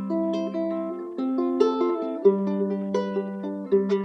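A strummed acoustic string instrument playing the chord introduction to a children's song, with a fresh chord strummed about once a second and ringing in between.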